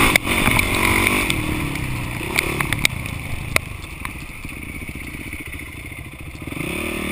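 Off-road motorcycle engine riding through the gears, its pitch rising and falling; it is loud at first, drops back, and revs up again near the end. A few sharp clicks come through in the middle.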